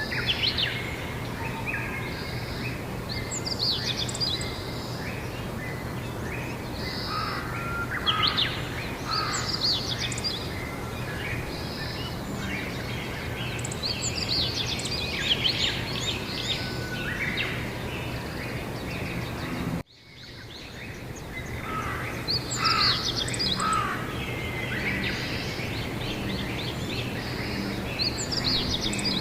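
Several birds chirping and trilling in a spring dawn-style chorus over a steady low hum. Just under twenty seconds in, the sound cuts out abruptly, then fades back up over a couple of seconds.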